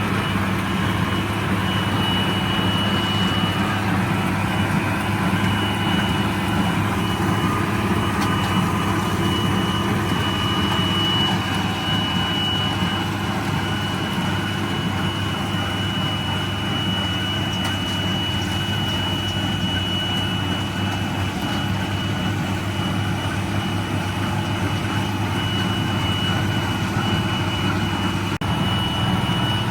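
International Harvester 886 tractor's six-cylinder diesel running steadily under load while pulling a John Deere 348 square baler, with a thin steady high-pitched whine over the engine drone that drops out briefly a few seconds in.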